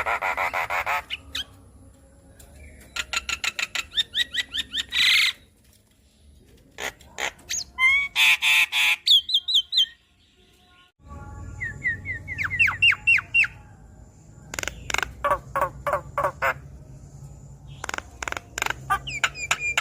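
Javan myna singing: phrases of rapid, harsh clicking chatter mixed with short whistled notes that sweep upward, with brief pauses between phrases.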